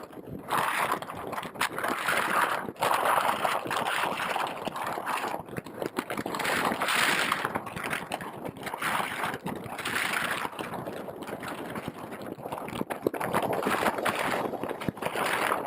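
Wind rushing over the microphone of an RC plane's onboard camera in flight, swelling and fading in uneven gusts.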